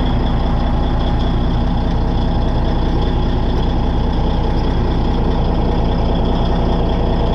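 Caterpillar D8N bulldozer's six-cylinder diesel engine running steadily after a cold start.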